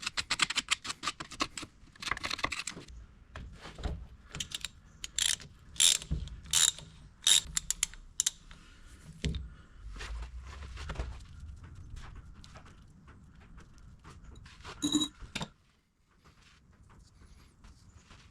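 Hand tools working on metal: a run of rapid ratchet-like clicking, then scattered clicks and knocks, with one brief ringing clink near the end.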